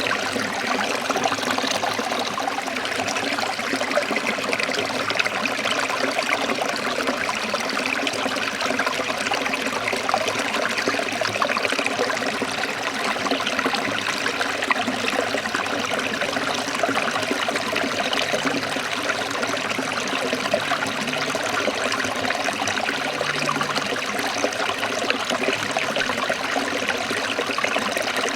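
Forest stream trickling and splashing steadily, an even rush of running water.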